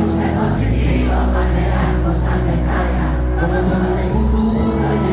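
Live cuarteto band playing loudly through the hall's PA, with the crowd's voices mixed in.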